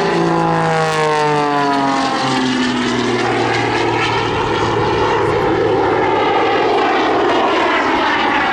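Jet-assisted Pitts aerobatic biplane flying past: its propeller engine note drops steadily in pitch over the first couple of seconds as it passes, then settles into a loud, steady, rushing engine noise.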